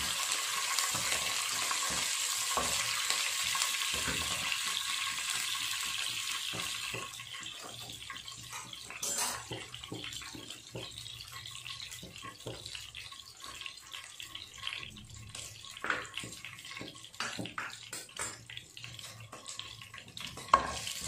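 A tempering of green chillies, curry leaves and dals sizzles loudly in hot oil in a nonstick pan for about seven seconds. The sizzle then dies down to a faint crackle, with scattered ticks from a wooden spatula stirring in the pan.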